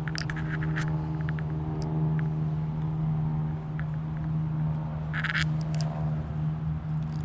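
A steady engine hum at one constant pitch, with a few light clicks and taps in the first couple of seconds and a short hiss about five seconds in.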